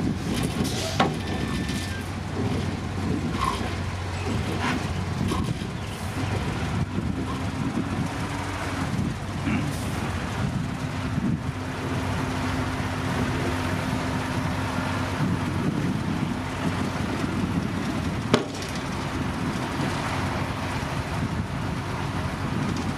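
Heavy diesel earthmoving machinery running steadily at a construction site, with a low, continuous engine drone. Two sharp knocks, one about a second in and one later on, are like metal clanking.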